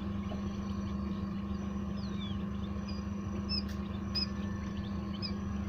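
Steady low machine hum, with faint, short, high peeps from newly hatched quail chicks from about two seconds in, and a few light clicks.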